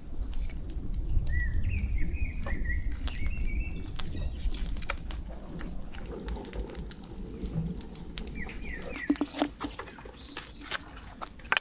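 A bird chirping in two short runs of quick sweeping notes, one near the start and one past the middle, over scattered sharp clicks and a low rumble.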